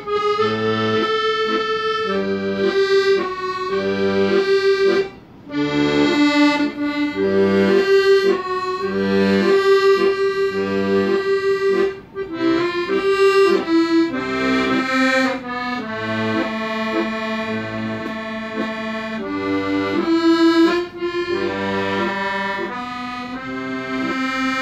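Instrumental music: a sustained, reedy-toned melody played over a regular low bass accompaniment, with a brief break in the notes about five seconds in and again near twelve seconds.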